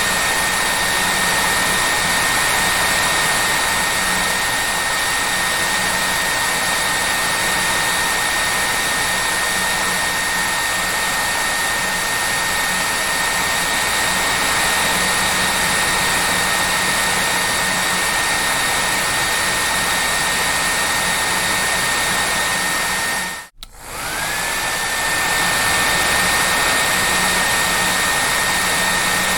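Hair dryer running steadily: a loud even rush of air with a high motor whine. About three quarters of the way through it cuts out for a moment and comes back, the whine rising back up to pitch.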